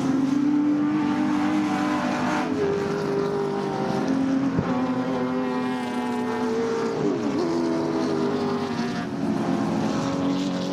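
Engines of 1970s Group N muscle race cars running hard past the circuit edge, several engine notes overlapping. The pitch steps with gear changes, and one engine note glides down about seven seconds in as a car slows.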